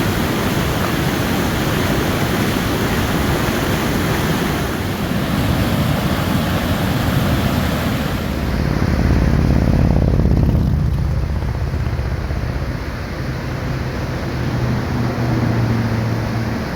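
Steady roar of a waterfall's rushing water. About halfway through it gives way to the low, steady drone of a vehicle's engine and road noise.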